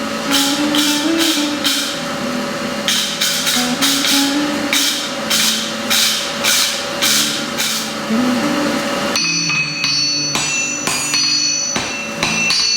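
Background music with a melody, together with regular hammer blows about two a second on steel, as in forging at an anvil. In the last few seconds the blows become less regular and high ringing tones come in.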